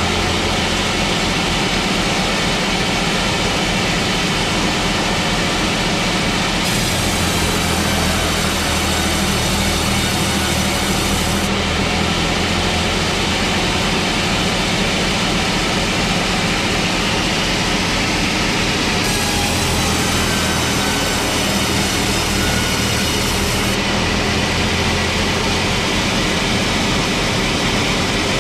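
Sawmill machinery running steadily: a loud, constant mechanical drone with a low hum, its tone shifting abruptly a few times.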